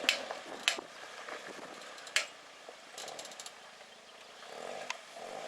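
Sharp snaps and knocks of twigs and branches striking and scraping the body of a Suzuki Jimny JB23 as it crawls through brush, over the low running of its engine. Three loud snaps come in the first two seconds, then a quick run of fainter ticks.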